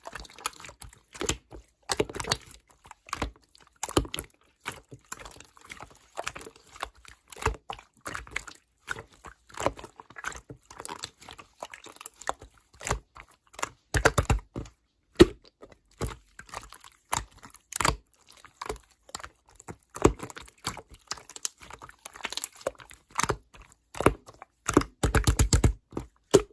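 Slime being squeezed and pressed by hand, making irregular sticky clicks and pops. There are quick runs of small pops around the middle and again near the end.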